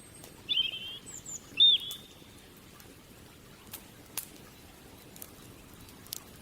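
A bird gives a few short chirps in the first two seconds, the last one the loudest. After that a wood fire crackles with a few sharp, scattered pops over a low hiss.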